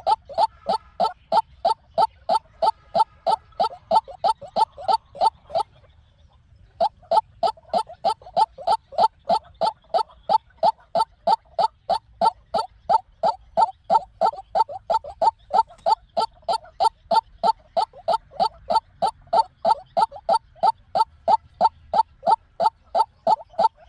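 White-breasted waterhen calling, a steady run of short, repeated notes at about four a second, with a brief pause about six seconds in. This is the decoy call that trappers use to lure waterhens.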